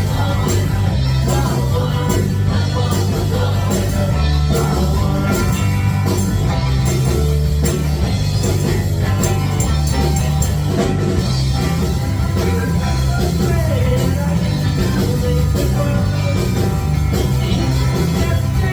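Live rock band playing a song with drums, bass and a singer, loud and steady.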